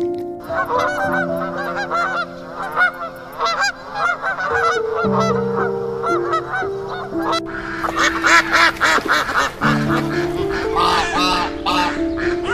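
A flock of waterfowl calling over soft piano music: many rapid, overlapping honking calls, growing louder and harsher about seven seconds in.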